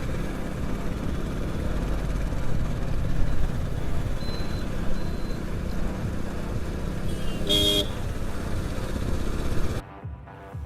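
Steady wind and road noise from riding a Hero HF Deluxe motorcycle, with a vehicle horn honking briefly about seven and a half seconds in. The noise drops off abruptly near the end.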